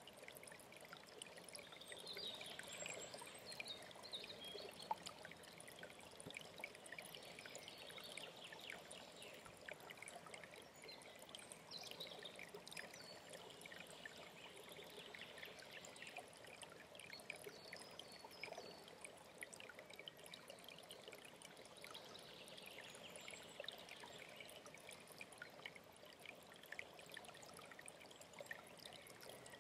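An alpine mountain stream trickling and splashing steadily, heard faintly.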